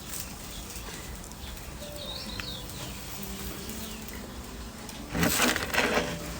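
Outdoor background with a short bird chirp about two seconds in, then a loud rustling noise lasting about a second about five seconds in.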